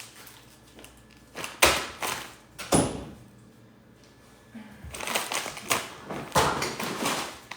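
Kitchen clatter: a few sharp knocks and bangs of things being taken out and set down on a counter, with rustling handling in between.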